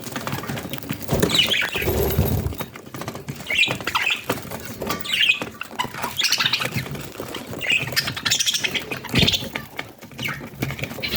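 Budgerigars chirping in short, scratchy bursts every second or two, over many small clicks and scratches, with a few low thumps.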